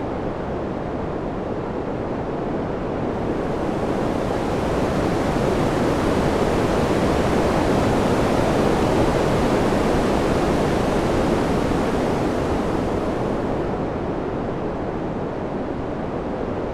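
Steady rushing wind noise with no distinct gusts or tones, swelling slowly in the middle and easing off again near the end.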